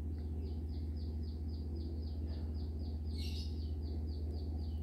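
A bird calling: a fast, even run of short, high, falling chirps, about four a second, over a steady low hum. A brief scratchy burst sounds about three seconds in.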